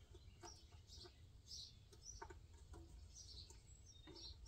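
Near silence with faint birds chirping: a few short, high chirps spaced about a second apart, and some soft clicks.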